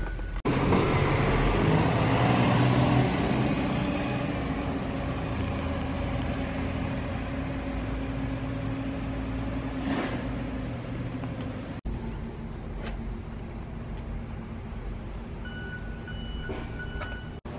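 A vehicle engine running steadily, fading gradually after the first few seconds. Near the end, a high beep sounds a few times.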